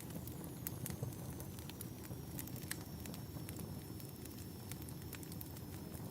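Bonfire burning: a steady low rumble of flames with scattered sharp crackles and pops from the burning wood, and a faint thin high whistle running through it.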